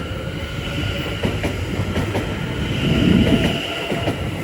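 Greater Anglia Class 720 Aventra electric multiple unit pulling out of the platform. Its traction motors give a steady whine over a heavy wheel rumble, with a run of clicks as the wheels cross rail joints.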